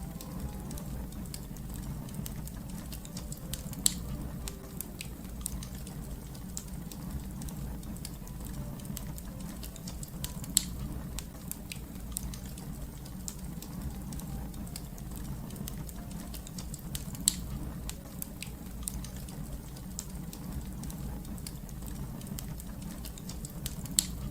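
Wood fire crackling: constant small snaps over a low steady rumble, with a few louder sharp pops spread through.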